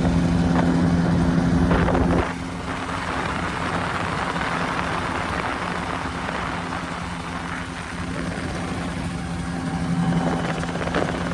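Ultralight airplane's engine and propeller droning steadily in flight. About two seconds in the drone drops off sharply, leaving mostly wind rushing past with the engine's hum fainter, and the hum comes up a little again near the end.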